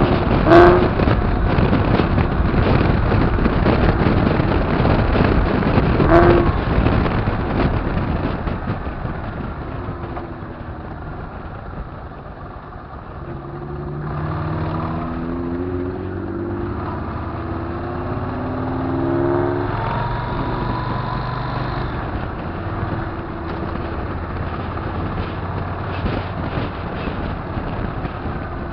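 Motorcycle on the road with heavy wind rush on the microphone. Partway through, the engine note rises in steps as it accelerates through the gears.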